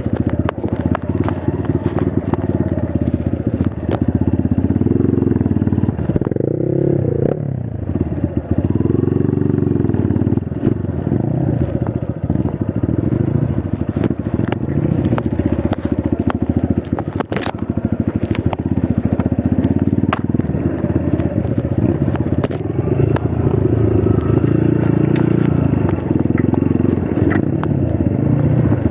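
Trail motorcycle engine running under load, its revs rising and falling again and again, with clattering and occasional sharp knocks.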